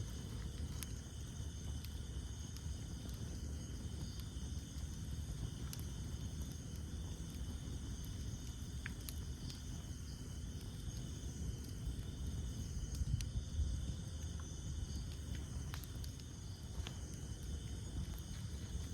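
Wood campfire burning, with a low steady rumble of flames and a scattering of single sharp crackles and pops, one slightly louder flurry about two-thirds of the way in. A steady high chorus of night insects rises and falls over it.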